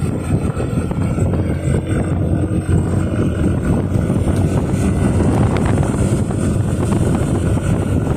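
Steady wind rushing over the microphone while riding, with a motorcycle engine running underneath at an even pace.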